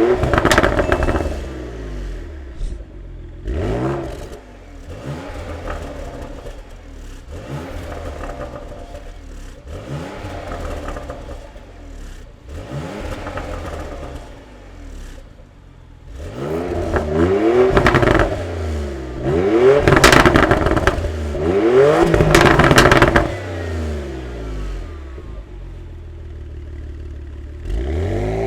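Porsche Macan 3.0-litre V6 with a valved sound-adjustable exhaust, revved in repeated blips, each rising and falling in pitch about every two seconds. The revs get louder and sharper about halfway through, then the engine settles to a steadier idle near the end.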